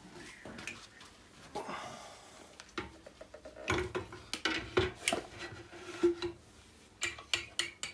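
A run of light metallic clinks and knocks, close together in the second half, with a faint ringing tone under some of them, as metal parts or tools are handled.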